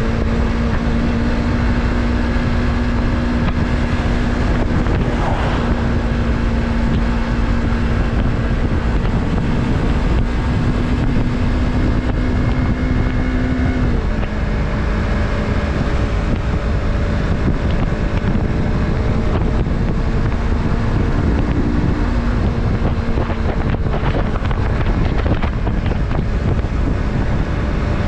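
Yamaha MT-03's 321 cc parallel-twin engine running steadily under way, its note holding and then changing about halfway through, with wind rushing over the microphone.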